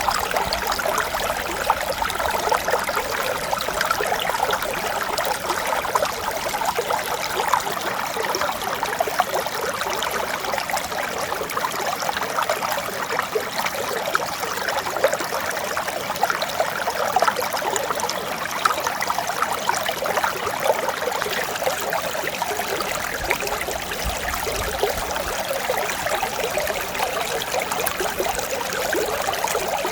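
Mountain stream babbling steadily over rocks, a gentle continuous water sound without pauses or single splashes standing out.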